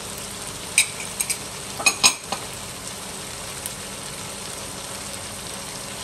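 Okra, tomatoes and spices sizzling steadily as they fry in a pan. A few sharp clinks come about one to two seconds in.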